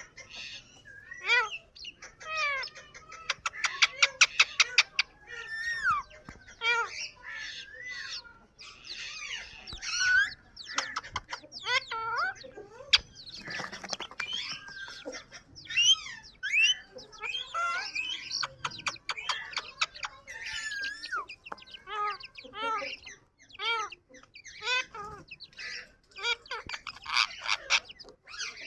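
Yellow ringneck parrot vocalising: a varied string of chirps, squawks and whistled rising and falling notes, with a fast rattling run of repeated notes about four seconds in.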